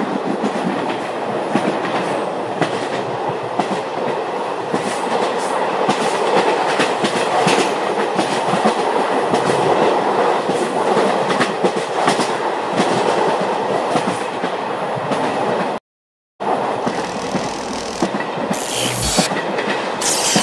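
Train carriage running on the rails: a steady rumble dense with small clicks of the wheels. About sixteen seconds in it cuts off suddenly, resumes half a second later, and a few brief high hisses come near the end.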